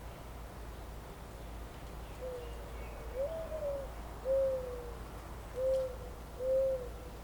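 A bird giving a series of five low, hollow hooting notes, starting about two seconds in. The first two notes are longer, and the second rises and then falls. The last three are shorter and evenly spaced, over a steady low background rumble.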